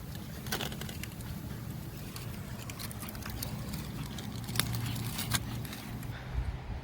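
Aluminium foil crinkling as a foil-wrapped waffle-cone s'more is opened, with scattered sharp clicks over a low steady rumble.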